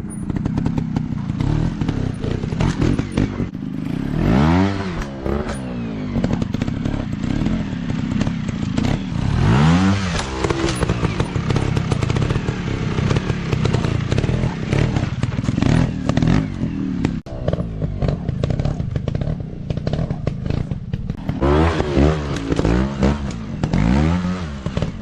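Dirt bike engines revving up and falling back repeatedly, with clattering and knocks from off-road riding.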